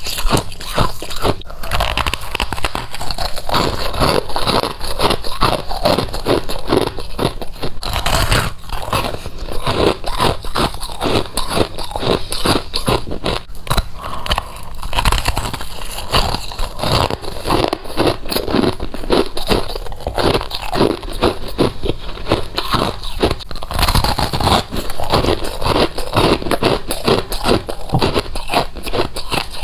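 Close-up biting and chewing of frozen frost, a continuous run of crisp, irregular crunches.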